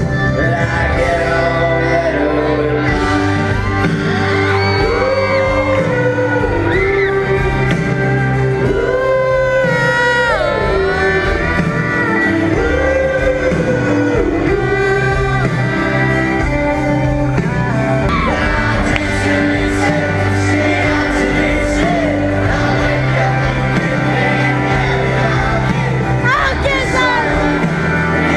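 Live pop-rock concert music: a band playing with a singer's voice gliding over it, heard from the audience, with shouting from the crowd.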